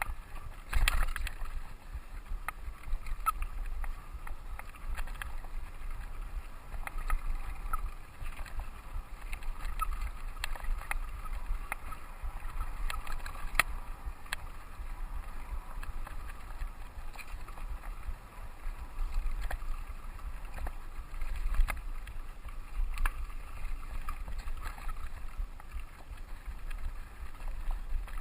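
Mountain bike riding along a dirt trail: a steady low rumble of wind on the camera microphone and tyres on the ground, with frequent rattling clicks and knocks from the bike over bumps.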